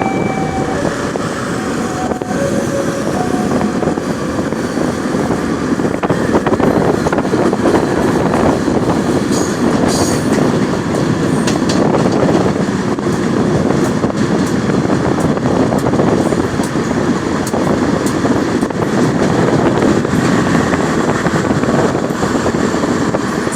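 Commuter train running along the tracks: a loud, steady rail noise that continues without letting up.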